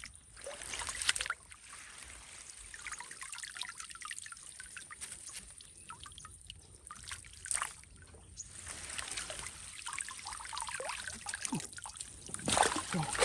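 Shallow water in a flooded rice field trickling and splashing, with a louder splash about a second in and a run of splashes building near the end.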